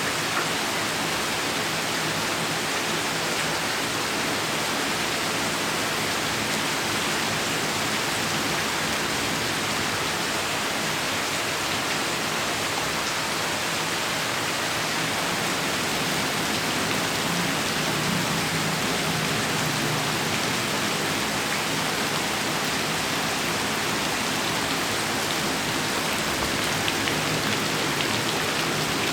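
Steady heavy rain pouring down, a dense unbroken hiss with no thunder heard, and a few louder drops near the end.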